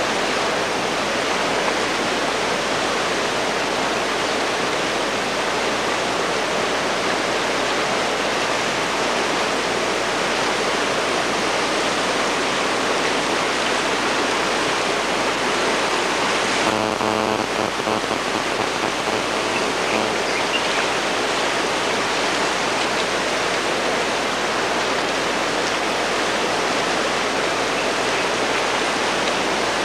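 Floodwater rushing steadily down a wadi channel in a flash flood.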